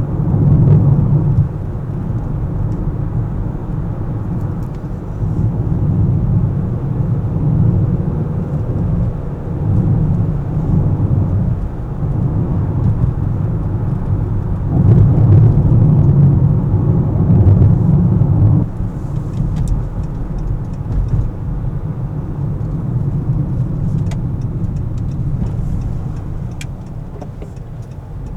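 Car driving through city traffic: a low engine and tyre rumble that swells and eases, loudest for a few seconds past the middle, then drops off suddenly.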